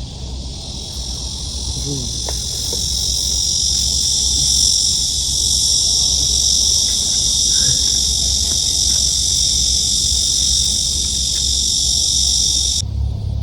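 Loud, steady insect buzzing, a summer insect chorus, that swells slightly and then cuts off suddenly near the end.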